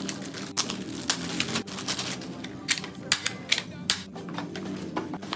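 A rapid, irregular series of sharp plastic clicks and knocks from a Nerf toy blaster and its packaging being handled.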